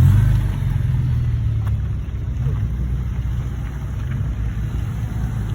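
A car engine rumbling low and steady, a little louder at the start and easing off slightly.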